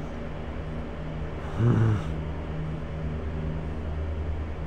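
A steady low motor drone, with one short low groan-like voice sound that bends in pitch about a second and a half in.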